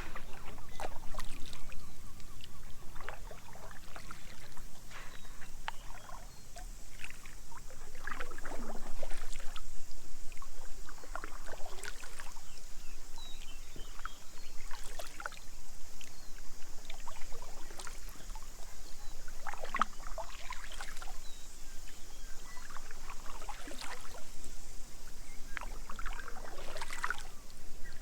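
Kayak paddle strokes splashing in the water, one every two to three seconds, over a steady high hiss.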